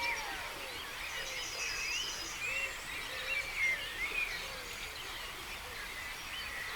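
Dawn chorus of many songbirds calling and singing at once over a steady hiss of running stream water, with a quick high trill of about eight notes a little over a second in.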